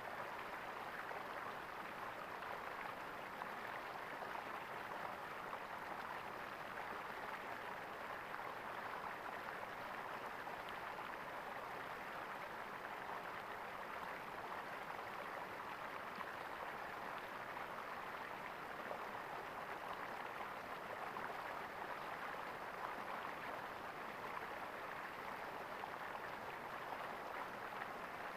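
Water gurgling in a stream, a steady, even rush.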